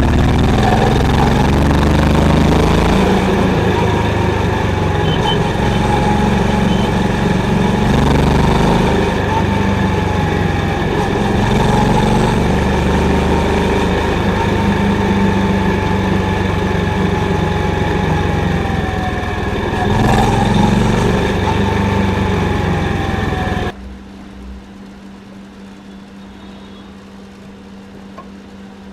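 Honda CB350's single-cylinder engine running loudly with the bike under way, a faint wavering whine over it. About 24 seconds in, the sound drops suddenly to a much quieter steady hum.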